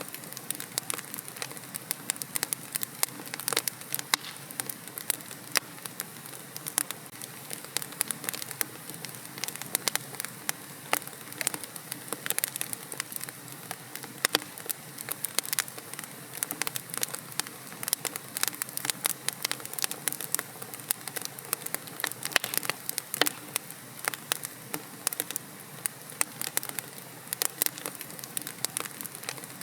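Wood fire crackling in a fireplace: a soft steady hiss with many sharp, irregular pops and snaps.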